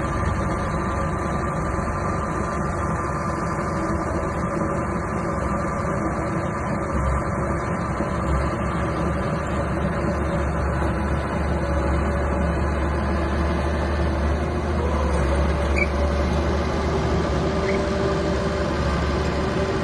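Small bulldozer's engine running steadily under work, with a slight shift in pitch about fifteen seconds in.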